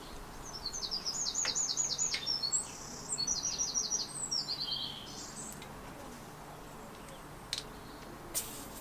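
A songbird singing two quick phrases of rapid, high, trilled notes, with a few light clicks.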